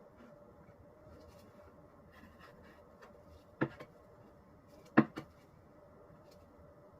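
Two sharp knocks about a second and a half apart, each followed quickly by a lighter one, with faint clicks over a steady low hum.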